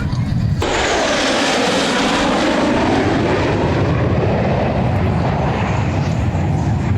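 Aircraft flying past, its noise starting abruptly about half a second in, with a sweeping falling pitch as it passes, then easing off.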